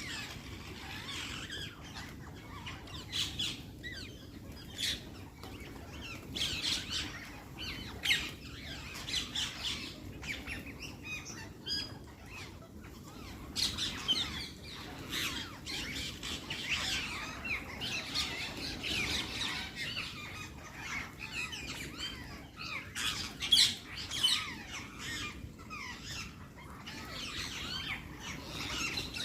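Parrots squawking: many short calls, often overlapping, coming in clusters throughout.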